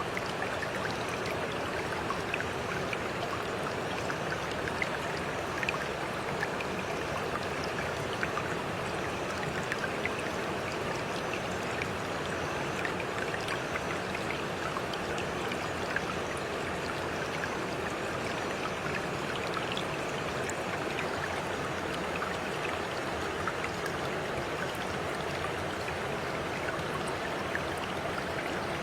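A stream flowing steadily, with a continuous rush of water dotted with small splashes and drips.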